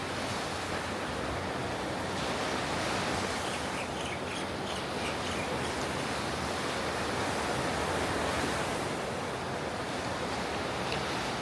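Ocean surf breaking and washing onto a beach: a steady rush of noise that swells and eases gently with the waves.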